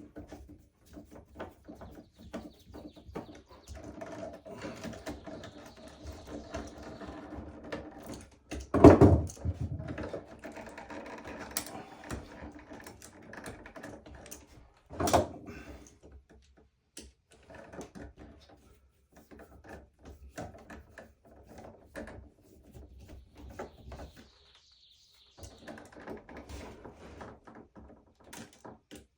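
Irregular clicks and knocks of hand work with tools and materials, with two heavy thumps, the louder about nine seconds in and another about fifteen seconds in.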